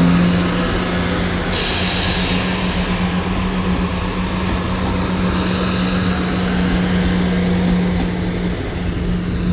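Chiltern Railways Class 168 diesel multiple unit's underfloor diesel engines running with a steady low hum. A hiss joins in about one and a half seconds in.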